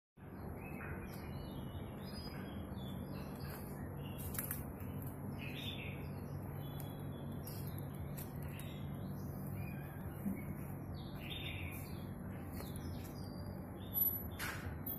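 Birds chirping in short, scattered calls over a steady low hum and hiss, with a brief louder click near the end.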